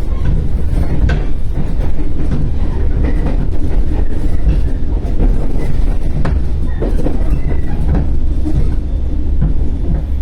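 415 series 1500-subseries electric multiple unit running along the line: a steady low rumble of wheels on rail, with occasional sharp clicks.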